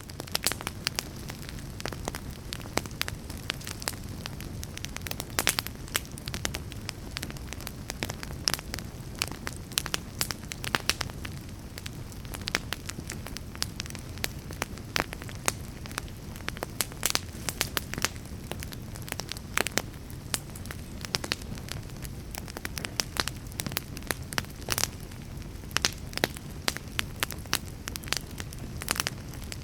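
Crackling fire: frequent, irregular sharp pops and snaps over a steady low rumble.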